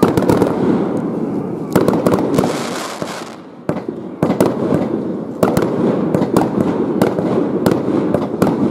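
Fireworks going off in rapid succession: a string of sharp bangs and crackles, with a short lull about three seconds in before the bangs pick up again.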